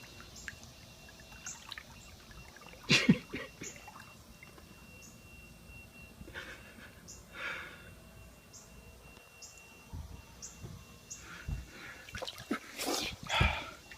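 Floodwater sloshing and splashing in a series of separate bursts, the loudest about three seconds in, as someone wades through it.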